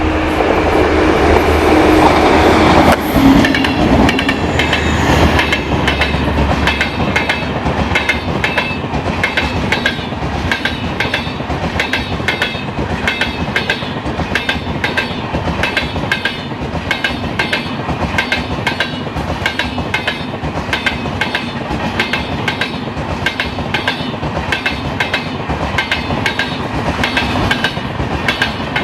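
Passenger train passing close by: a loud steady hum for the first few seconds, then a fast, even clickety-clack of the coaches' wheels over the rail joints.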